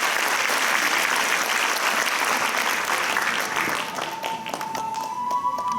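Audience applauding, thinning to scattered claps after about four seconds, as a single held high note begins near the end.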